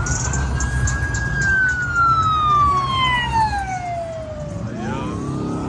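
Siren wailing: a held high tone that slides slowly down in pitch and starts to rise again near the end, over a low rumble.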